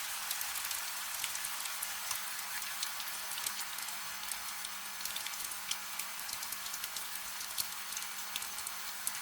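Gentle, steady rain: an even hiss with many small drops ticking and pattering throughout, and no thunder.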